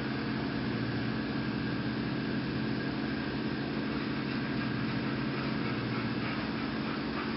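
International farm tractor's engine running at a steady speed, an even, unchanging hum.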